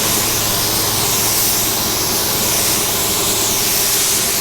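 Paint spray gun hissing steadily as it lays down the first coat of base coat, the hiss swelling and shifting as the gun sweeps back and forth, with a steady low hum underneath.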